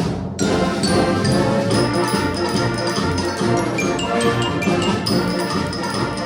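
Community concert band playing a galop, with brass and percussion.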